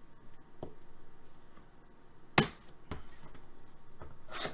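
Trading cards being handled on a table: a sharp click about two and a half seconds in and a softer one half a second later, with light handling noise between.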